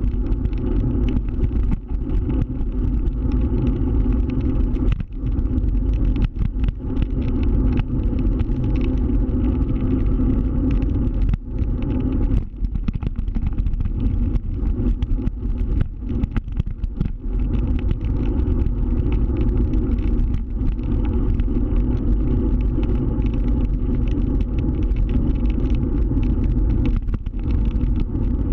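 A scooter riding along, its motor running steadily under constant low rumbling road and wind noise, with many brief dips in loudness.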